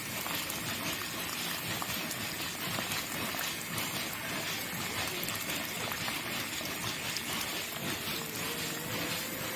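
Water splashing and trickling steadily, pushed out by a small model water pump.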